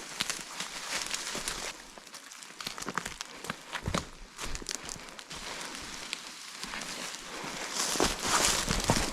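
Footsteps and rustling through wet bush undergrowth, with irregular small snaps and crackles of vegetation; the brushing grows louder near the end.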